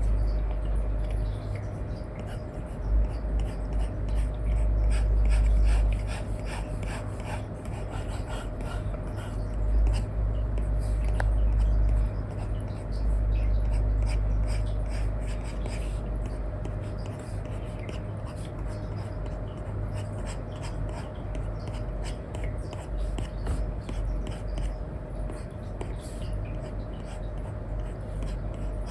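Stylus nib scratching across a paper-like iPad screen protector in many short, irregular strokes, the sound of colouring with a stylus, over a steady low rumble and a faint hum.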